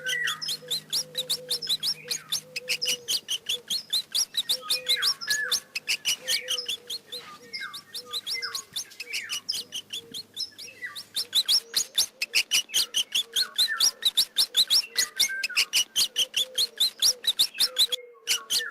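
Mouse squeaking: rapid high-pitched squeaks and chirps, several a second, with a brief break near the end.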